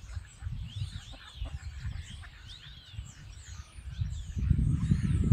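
Birds calling: many short, high, repeated chirps, over a low rumble of wind and handling on the microphone that grows louder about four seconds in.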